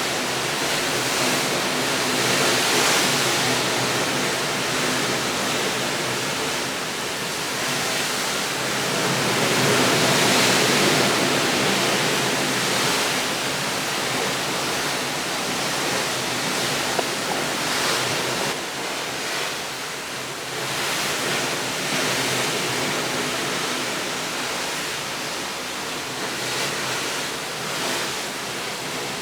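Steady rushing noise that slowly swells and fades, loudest about ten seconds in.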